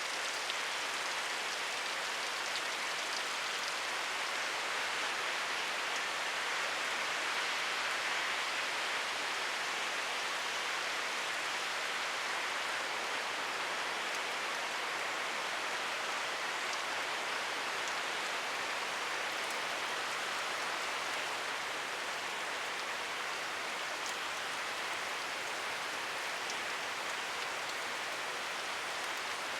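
Steady rainfall, an even hiss of drops with a few faint higher ticks of individual drops.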